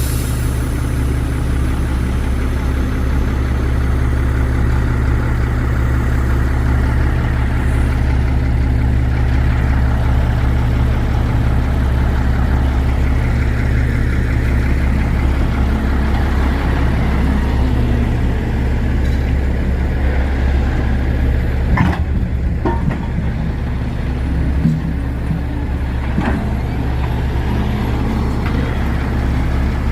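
Heavy diesel engine idling steadily, with a few short sharp knocks in the last third.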